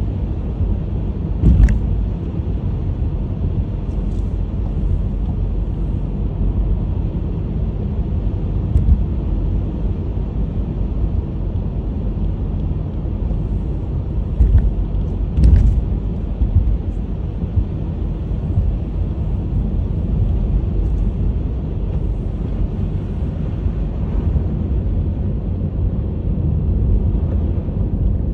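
Honda HR-V driving on a snow-covered road: a steady low rumble of tyres and engine, with a couple of brief thumps, one about a second and a half in and another about halfway through.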